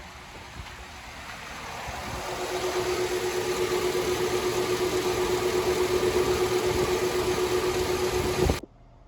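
A 2006 Cadillac Escalade EXT's 6.0-litre V8 running at a steady idle with a steady hum. It grows louder over the first couple of seconds and cuts off suddenly near the end.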